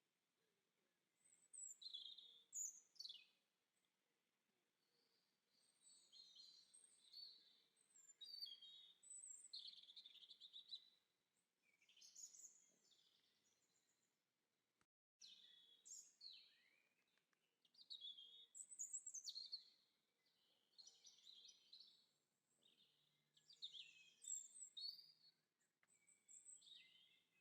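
Birdsong: quiet, high chirps and short warbling phrases, coming in bursts of a second or two with short pauses between them, and cutting out for an instant about halfway.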